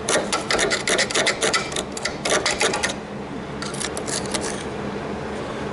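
Rapid scratchy clicking and scraping for about three seconds, then a shorter run a second later, over a steady low hum.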